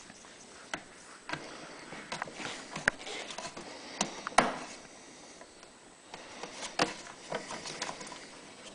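Hands working a rubber fuel hose and a hose clamp onto a brass fuel fitting: irregular small clicks, taps and rustling, with the sharpest clicks a little after four seconds and near seven seconds.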